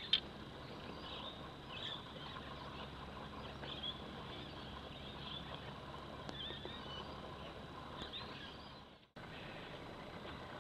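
Birds calling with short chirps again and again over a steady low outdoor rumble. A single sharp click sounds just after the start, and the sound drops out for a moment about nine seconds in.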